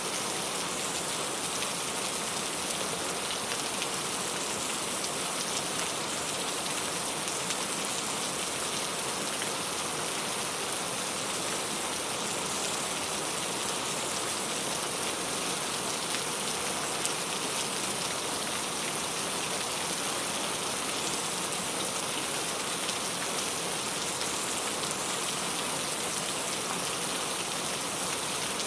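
Steady rain falling and pattering on a surface, an even hiss of many fine drops without letup.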